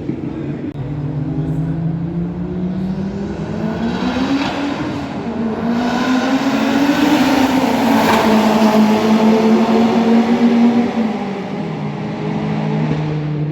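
Racing car engine at speed on a circuit, rising in pitch and getting louder, loudest about two-thirds of the way in. Its pitch drops near the end.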